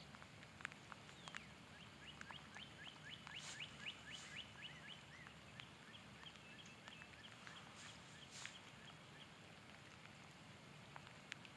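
Faint songbird singing a fast run of short, downslurred chirps, about six a second, starting about a second in, then a few scattered chirps. Light rain patters faintly underneath, with occasional sharp ticks of drops.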